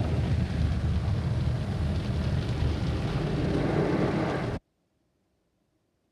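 MacNeil and Sonny's car wash tunnel equipment running: a steady, loud rush of water spray and machinery with a deep rumble, cutting off abruptly about four and a half seconds in.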